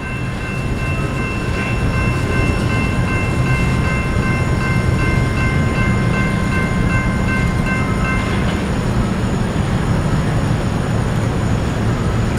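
Freight train rolling past with a steady low rumble of its railcars, and a steady high-pitched squeal that stops about eight seconds in.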